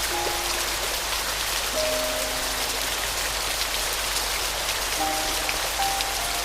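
Steady rain with fine drops pattering, with a few soft, sparse piano notes faintly underneath: a couple near the start, a low pair about two seconds in and more from about five seconds in.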